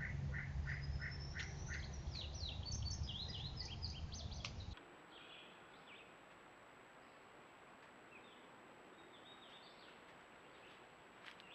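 Wild birds calling: a regular string of notes, about three a second, then a flurry of higher chirps, over a low hum. The hum drops out about halfway through and fainter, scattered bird calls follow.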